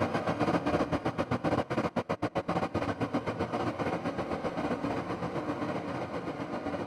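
Sampled 1928 Steinway Scoring Piano turned by Soundpaint's Color mode into a dense, rumbling, train-like texture. It pulses in a fast flutter about a second in, then fades steadily.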